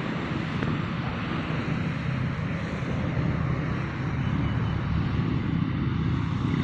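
Wind buffeting the microphone as a steady low rumble, with the hum of a radio-controlled airplane in flight underneath.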